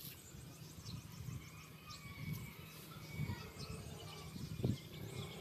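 Quiet outdoor ambience: faint birds chirping now and then over a low rumble, with a soft thump about four and a half seconds in.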